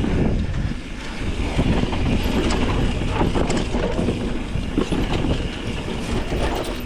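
Mountain bike rolling fast over a rough, rutted dirt trail: a steady rumble of tyres and wind on the microphone, with the bike's frame and parts rattling and knocking over the bumps.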